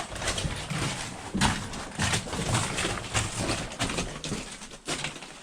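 Irregular footsteps and scuffs over a rough mine floor: a run of uneven knocks and scrapes with no steady rhythm.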